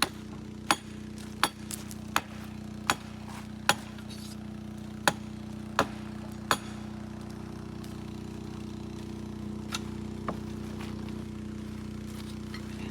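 Hammer blows in a steady rhythm, about one every three-quarters of a second for the first six seconds or so, then two lighter blows later on. A steady low mechanical hum runs underneath.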